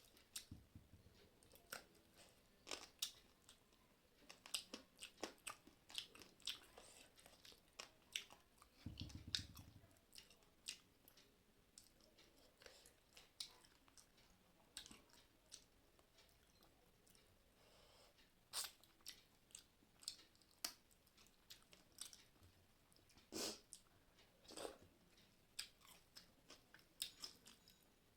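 Faint close-up eating sounds: a person chewing a rice meal with fried fish and vegetables, with irregular wet mouth clicks and soft crunches. A brief low rumble about nine seconds in.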